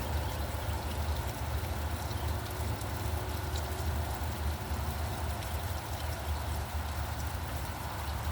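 Steady rain falling, with fine drop ticks over an even hiss, and a constant low rumble underneath.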